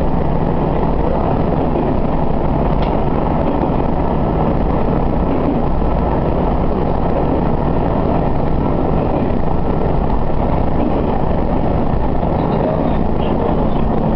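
Diesel railcar running steadily along the track, heard from inside the front of the car: a constant engine drone and the rumble of wheels on rail.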